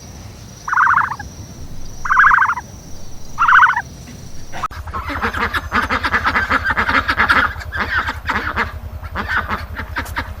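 Ducks calling. First come three loud, separate calls about a second apart, then after a cut a rapid, continuous chatter of quacking over a low hum.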